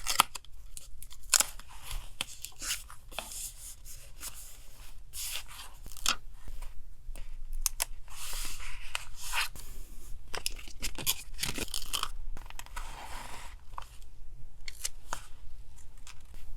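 Paper being cut and torn for a collage, a run of short rasping strokes and rustles as sheets are handled, over a faint steady low hum.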